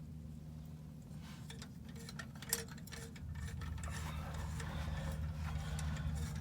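Ratchet wrench clicking in short irregular strokes as a spark plug is threaded into the engine. There is one sharp knock about two and a half seconds in, and a steady low hum underneath.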